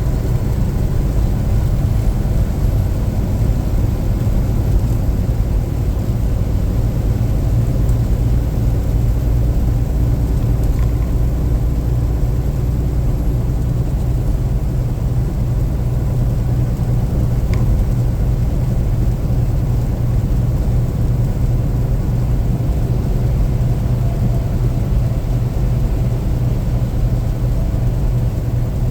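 Steady low rumble of a car being driven, engine and road noise without change.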